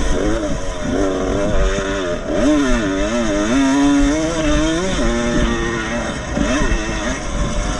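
Vintage motocross motorcycles' two-stroke engines revving, their pitch climbing and dropping again and again as the bikes accelerate, shift and brake. A second engine can be heard beneath the main one.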